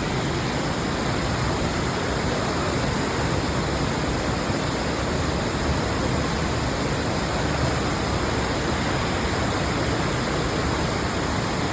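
Waterfall's falling water: a loud, steady, unbroken rush.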